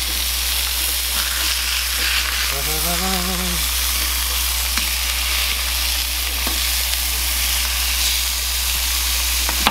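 Ground beef patties and sliced onions sizzling steadily in a hot cast iron skillet. A slotted spatula turns a patty, with a few light taps against the pan.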